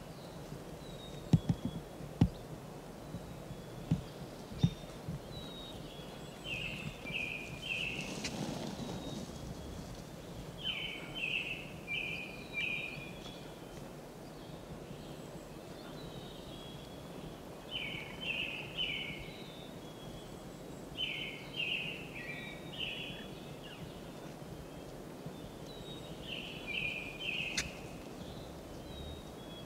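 A bird singing short phrases of three or four quick notes, repeated every few seconds over a steady outdoor background. A few sharp clicks come in the first few seconds.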